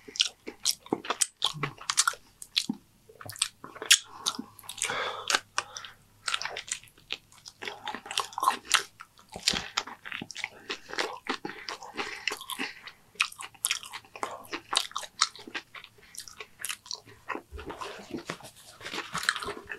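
A person chewing and crunching mouthfuls of Dorito nachos and tortilla close to the microphone, with many short, crisp crunches and wet mouth sounds.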